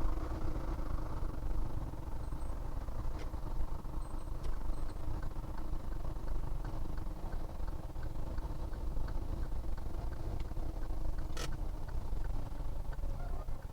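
A vehicle engine running steadily with a low road rumble. From about halfway through, a light regular clicking comes about twice a second, and there is one sharp click near the end.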